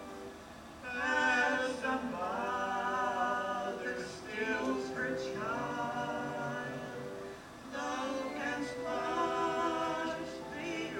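A vocal group singing a hymn in harmony, several voices moving together. One sung phrase starts about a second in, and after a brief breath another starts near the end.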